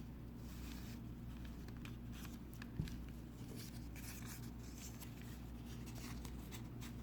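Faint rustling and light taps of paper being handled during a craft, with one slightly louder tap nearly three seconds in, over a steady low hum.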